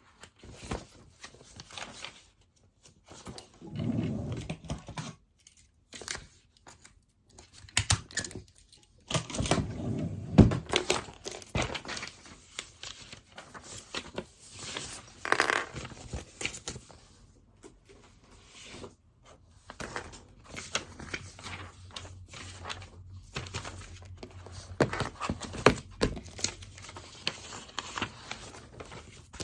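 Pen writing on paper at a desk, with irregular scratching, clicks and a few louder thumps and handling noises as things are moved about.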